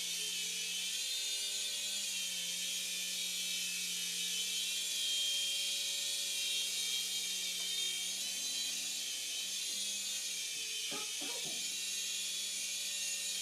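Toy remote-control helicopter's small electric motors and rotors whirring steadily in flight, the pitch wavering slightly.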